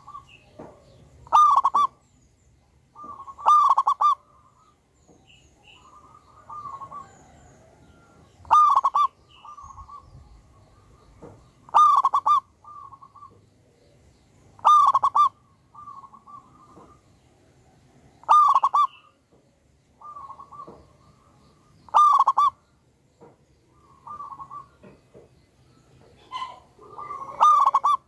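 Zebra dove (perkutut) cooing. Loud, strong phrases repeat about every three seconds, with softer coos between them.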